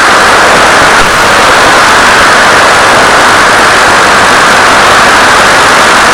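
Loud, steady static hiss with no pitch, from the audio channel of an analog 1.3 GHz FPV video receiver. There is no clear motor tone in it.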